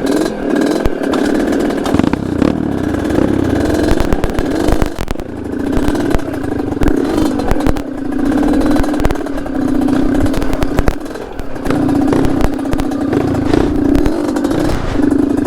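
Yamaha DT trail motorcycle with a Yamaha RX-King two-stroke engine running and revving unevenly on a rocky trail, easing off briefly twice, with many sharp clattering knocks throughout.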